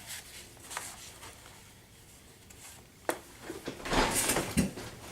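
Handling noises from working on the pack: a sharp click about three seconds in, then a brief scraping rustle that ends in a dull thump.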